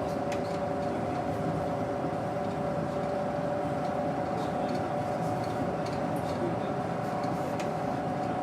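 The Doosan GE12Ti natural-gas engine of a Daewoo BS110CN bus running at a steady pace, heard from inside the cabin. It has a steady rumble with a constant whine over it.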